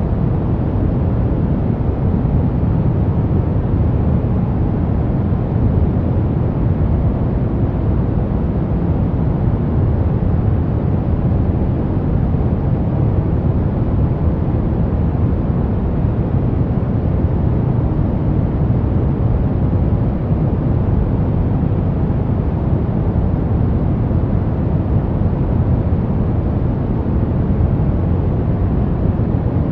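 Steady pink noise, a constant even hiss weighted toward the low end, with no change throughout.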